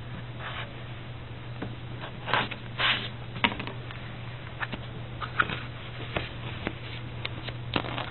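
Closed-cell foam pipe insulation being handled and worked around copper pipe fittings: scattered brief scuffs and rustles with a few sharp clicks, over a steady low hum.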